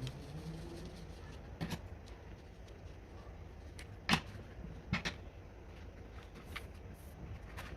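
A few sharp clicks and knocks, four over several seconds, the loudest a little past four seconds in, over a low steady hum.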